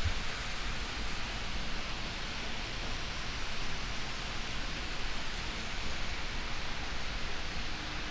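Steady rushing hiss with no clear pitch or rhythm, holding at an even level.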